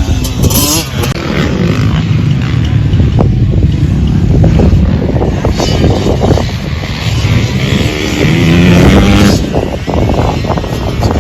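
Dirt bike engine running and revving, rising in pitch near the end, under a heavy low rumble of wind on the microphone.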